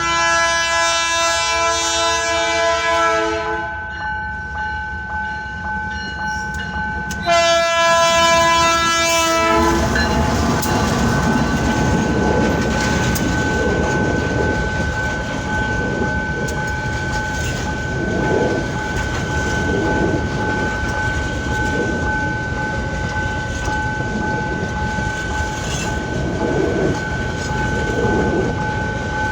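Freight locomotive's air horn sounding two long multi-tone blasts, then a freight train rolling past with a rhythmic wheel clatter under a steady high ringing tone.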